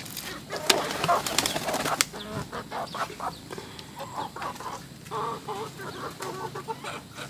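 Domestic pigeons: a flurry of wing flaps in the first couple of seconds, then a series of short, low calls.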